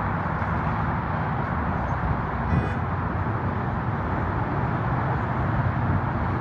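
Steady low rumbling noise of wind buffeting the microphone over traffic, with a brief faint high squeak about two and a half seconds in.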